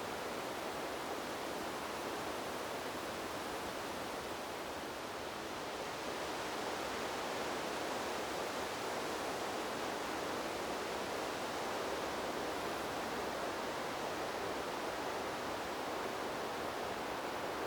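Wind blowing through trees, a steady rushing noise that swells slightly about six seconds in.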